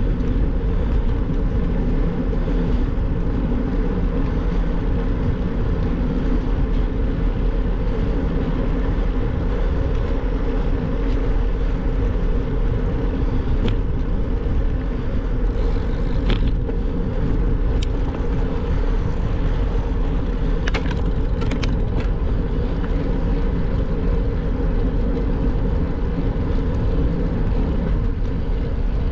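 Steady road noise from a bike being ridden, with a few brief clicks or ticks in the second half.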